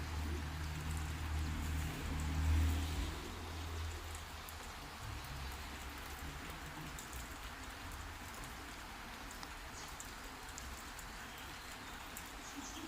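Steady heavy rain falling, with scattered sharp drop ticks. A low rumble sits under it for the first four seconds or so, loudest about two and a half seconds in, then fades.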